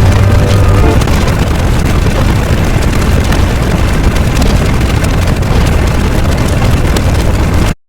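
A loud, continuous rumbling noise effect with a strong deep low end, cutting off abruptly to silence just before the end.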